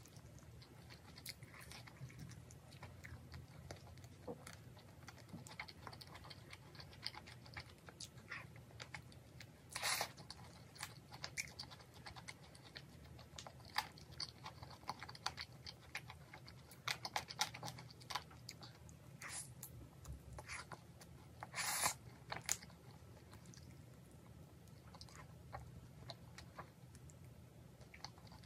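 Close chewing and crunching of fried chicken coated in onion and a mayonnaise-based sauce, small crackly bites throughout, with two louder crackles, one about a third of the way in and one about three quarters in.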